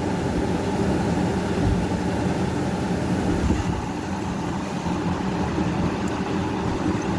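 Yanmar 6AYM six-cylinder marine diesel engine running steadily at idle.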